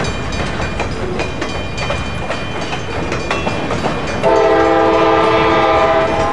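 Loaded flatcars of a freight train rolling by, wheels clicking and rattling over the rail joints. About four seconds in, the train's distant locomotive horn sounds a steady several-note chord for about two seconds.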